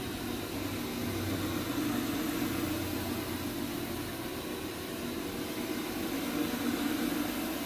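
Counter-rotating brush carpet machine running steadily as it scrubs an odour-encapsulant treatment into the carpet, its hum swelling slightly twice.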